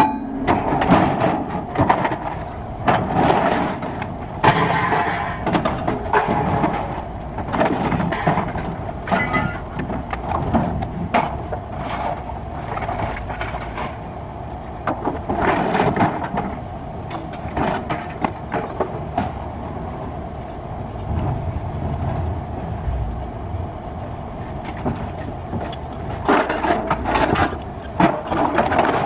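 Scrapyard sounds: a steady engine running under repeated metallic knocks and clatters of scrap being handled.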